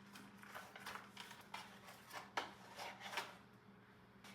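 Faint rustling, crinkling and scraping of an MRE food pouch being handled and opened, in several short irregular bursts, the sharpest about two and a half seconds in.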